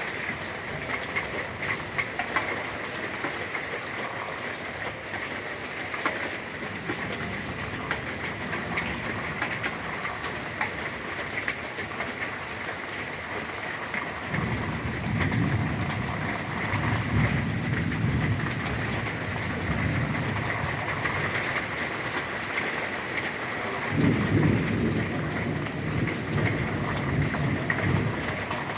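Heavy rain falling steadily. Two long, low rolls of thunder come in over it: one starts about halfway through and lasts several seconds, the other comes near the end.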